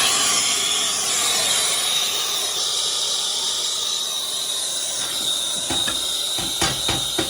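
Small handheld gas torch burning with a steady hiss and a thin whistle on top, heating a seized mower blade bolt to free it. A few short knocks sound near the end.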